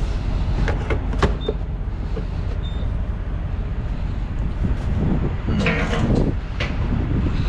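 A semi-truck's diesel engine idles with a steady low rumble. Several clicks and clanks come in the first second and a half, and a brief rushing noise comes about six seconds in.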